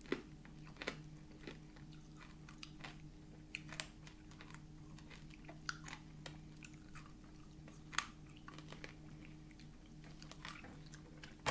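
Hard candy being crunched and chewed: a dozen or so sparse, faint crunches and clicks. A steady low hum runs underneath.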